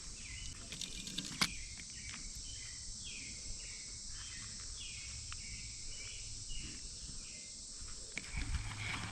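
Outdoor summer ambience: a steady high insect hum, with a run of short falling chirps repeating about twice a second and a few faint clicks.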